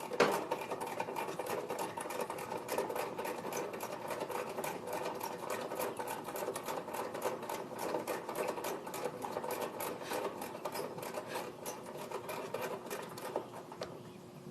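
Air-conditioner condensing unit's compressor running with a fast, even mechanical clatter during a pump-down, the refrigerant pulled into the condenser with both service valves closed. The clatter thins out and fades near the end.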